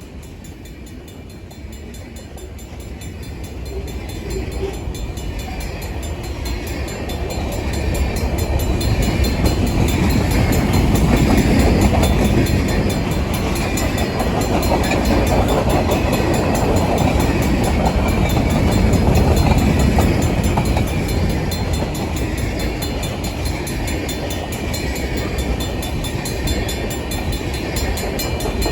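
Freight train passing through a railroad grade crossing, its railcars rumbling and clacking over the rails and growing louder over the first ten seconds or so. A Safetran mechanical crossing bell rings rapidly throughout.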